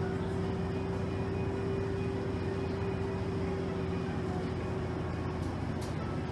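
Cabin noise of a moving motor coach: a steady engine and road drone with a constant mid-pitched hum over it.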